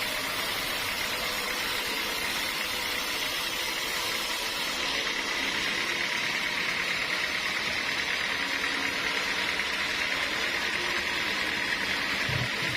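Sawmill machinery running steadily: a continuous mechanical noise with a faint high whine held at one pitch, getting a little louder about five seconds in.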